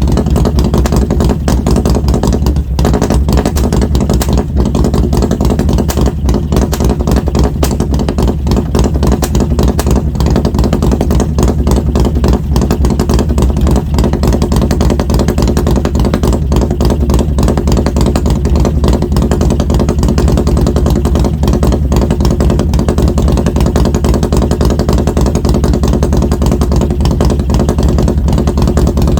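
Harley-Davidson Road Glide Special's Milwaukee-Eight V-twin, fitted with an S&S 475 camshaft and Mutazu 2.0 megaphone slip-on mufflers, running steadily with a strong low rumble.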